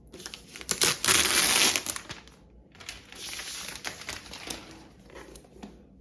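Packaging being handled and crinkled, with a loud rustling stretch about a second in and a quieter one in the middle, scattered with small sharp clicks.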